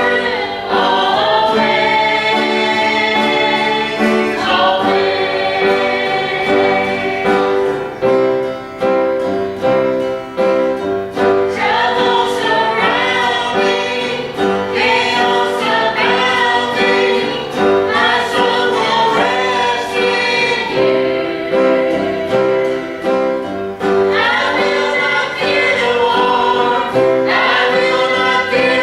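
Gospel song sung by a lead singer with backup singers and piano accompaniment. The voices carry the melody over steady sustained chords.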